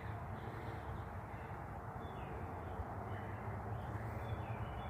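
Outdoor woodland ambience: faint, scattered short calls of distant birds over a steady low rumble of distant road traffic.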